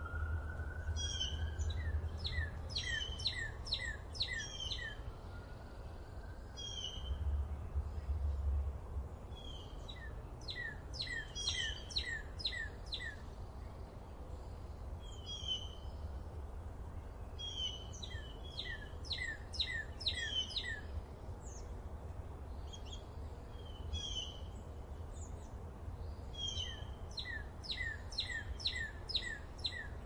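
Birds calling in bursts of quick, downward-sweeping high chirps, about two a second, returning every several seconds, over a steady low rumble.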